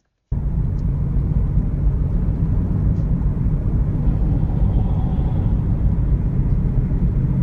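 Steady, loud low rumble of a car driving, with road and wind noise. It cuts in abruptly a moment after the start.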